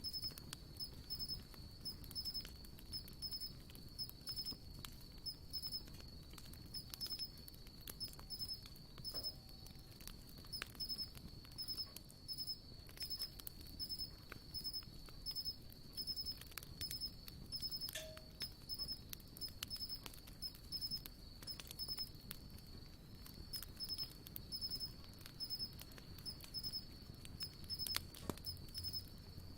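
Wood campfire crackling and ticking with scattered small pops, against a steady high-pitched chirping that pulses at an even rhythm.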